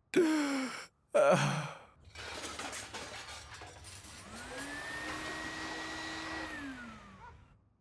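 Two weary cartoon sighs, then a cartoon vacuum cleaner whirring. Its motor hums up to speed, runs steadily with a hiss, then winds down and fades.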